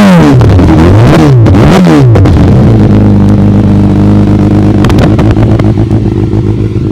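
Kawasaki ZX-12R's 1200 cc inline-four, on an aftermarket Dominator exhaust, revved three times in quick succession and then settling into a steady idle after about two and a half seconds.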